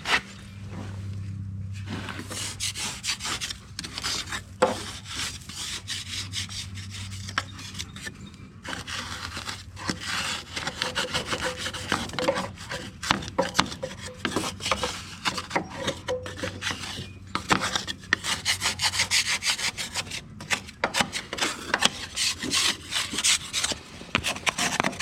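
Caked clay, mud and grass being scraped by hand off a riding lawnmower's metal deck: rapid, irregular rasping strokes, busier from about nine seconds in.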